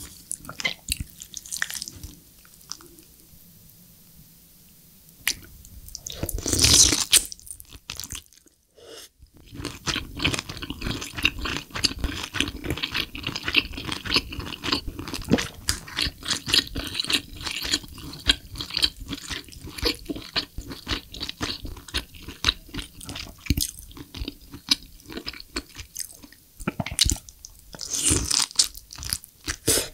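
Close-miked eating of spicy braised lobster tail meat: chewing with dense, rapid mouth clicks. There is a louder bite about seven seconds in and another near the end, and it is quieter for the first few seconds.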